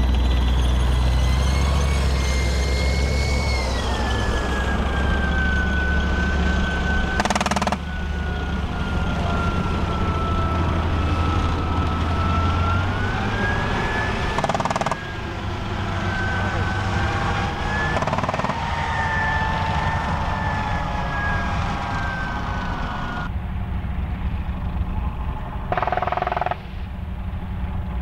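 Leopard 1 tank running: a deep engine rumble under a high, steady whine that slides slowly up and down with the revs. The sound changes abruptly several times, and the rumble drops away about halfway through.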